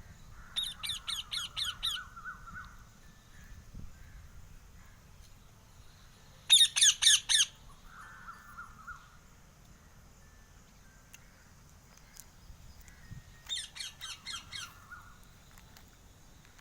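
A parrot calling in three bursts of rapid repeated squawks, each trailing into a lower note. The middle burst is the shortest and loudest.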